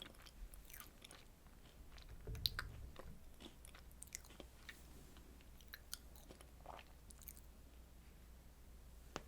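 Close-miked chewing of a soft strawberry dessert: quiet wet mouth clicks and smacks, busiest in the first few seconds. There is a low thump about two and a half seconds in, then sparser ticks.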